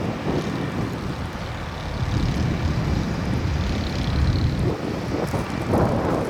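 Strong blizzard wind buffeting the microphone: a low, gusting rumble.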